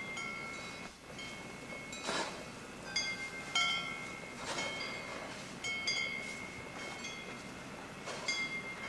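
Wind chimes ringing in irregular strikes, several pitches sounding together and each cluster ringing on for about a second.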